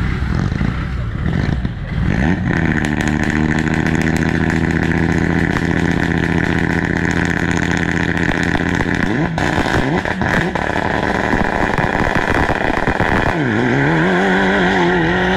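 Rally car engine revving up about two seconds in and held at steady high revs for about seven seconds at the stage start, then dropping off. A short blip follows, and near the end the revs climb again and waver.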